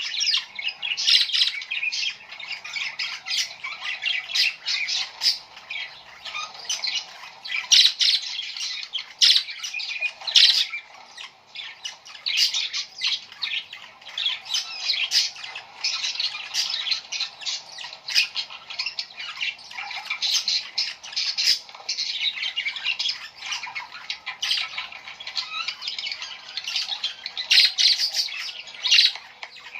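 Many small birds chirping and squawking nonstop, their short calls overlapping in a dense chatter.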